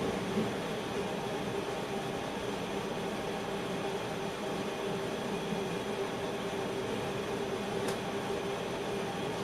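Steady background noise inside a train driver's cab, with a constant low hum throughout and a small click about half a second in.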